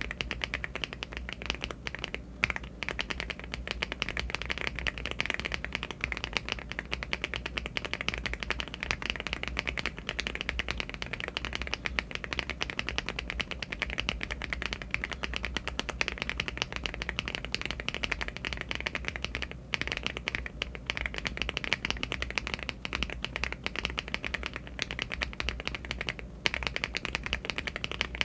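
Rapid, continuous typing on a LEOBOG Hi75 aluminium-case mechanical keyboard fitted with HMX Candy Red switches and Cherry-profile keycaps: a dense stream of keystroke clacks with only brief pauses.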